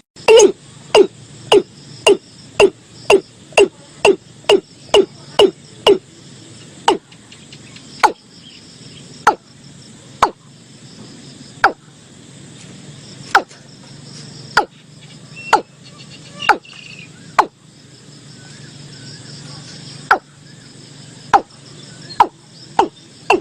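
Watercock calling: a series of deep, hollow notes, each dropping in pitch, about three a second at first, slowing to one every second or so, then quickening again near the end. Insects trill steadily behind.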